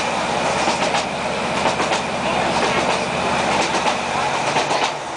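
Class 156 Sprinter diesel multiple unit running at speed, heard from inside the carriage: a steady underfloor diesel engine drone over rolling wheel noise, with the wheels clicking over rail joints every so often.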